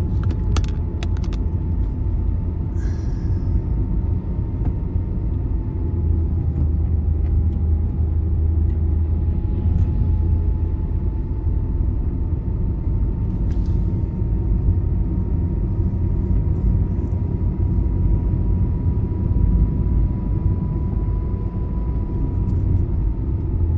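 Moving vehicle on a highway at night: a steady low rumble of road and engine noise, with a faint steady whine that drifts slightly in pitch. A few light clicks come just after the start.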